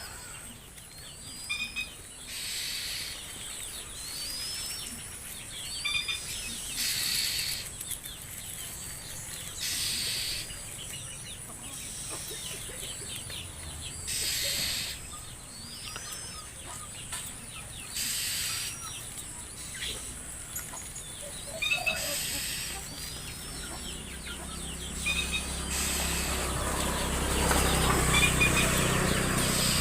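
A bird giving short, high chirps about every two seconds, with bursts of rustling noise every few seconds between them.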